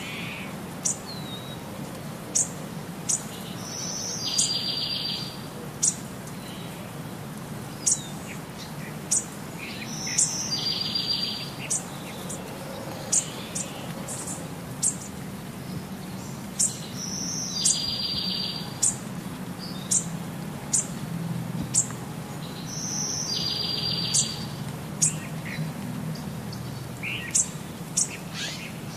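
Birds chirping: short, sharp high chirps about once a second, and a short buzzy trilled call that comes back about every six to seven seconds, over a low steady hum.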